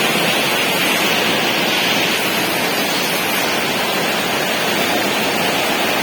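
Heavy rain driven by strong wind, a steady rushing hiss.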